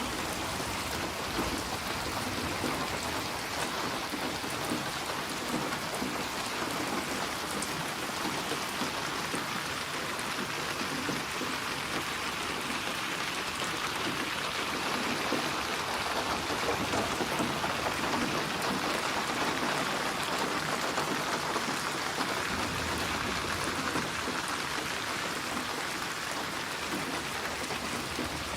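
Steady rain falling and pattering on a surface, a dense even hiss that swells slightly in the middle. A low rumble joins in the last few seconds.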